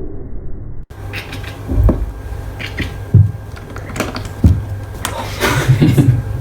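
Irregular knocks and deep thumps with short sharp clicks, several seconds apart, after an abrupt cut about a second in.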